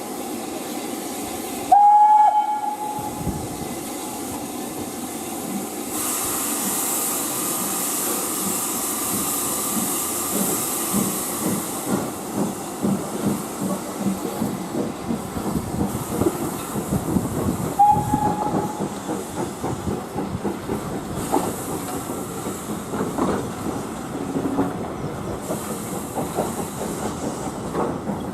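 Steam locomotive getting under way: a loud whistle blast about two seconds in, then a hiss of steam, then a run of exhaust beats, with a second, shorter whistle partway through.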